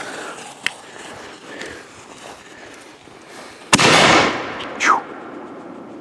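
Consumer firework cake firing: a faint pop early on, then about four seconds in a loud bang with a short crackling tail, followed by a brief falling whistle.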